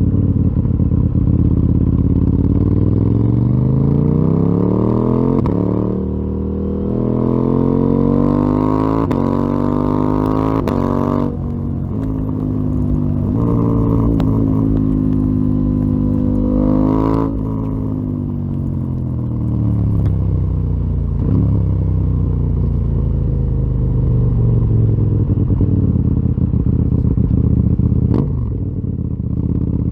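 KTM 890 Duke R's parallel-twin engine through a full Akrapovic exhaust, under way on the road. The engine pitch climbs steadily for the first ten seconds or so and breaks sharply twice, about eleven and seventeen seconds in. After the second break the pitch slides down and evens out.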